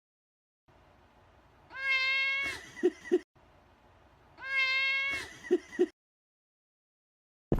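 A cat meowing: one long, high meow followed by two short, lower sounds, heard twice in exactly the same form, like a repeated meme sound clip.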